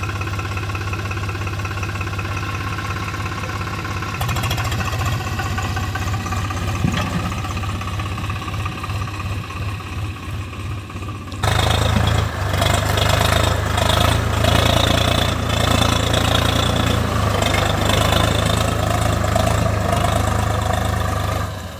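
Swaraj 735 FE tractor's three-cylinder diesel engine running steadily. The sound shifts abruptly about four seconds in and again about eleven seconds in, and it is louder after the second shift.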